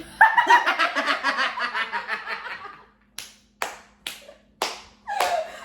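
A person laughing hard for about three seconds, then about five single hand claps roughly half a second apart.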